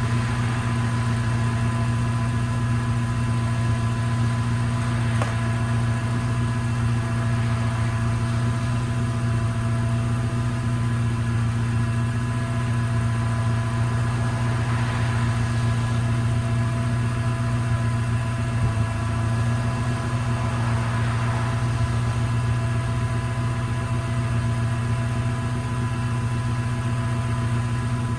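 Freshly swapped-in Honda K20 four-cylinder engine in an EK Civic idling steadily, with no revving.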